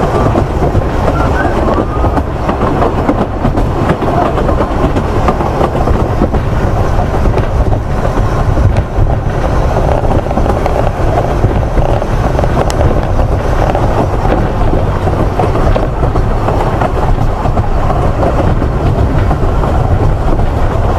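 Steady running noise of a narrow-gauge steam train heard from on board a carriage: wheels on rail and the rumble of the coach, with no pauses or sudden events.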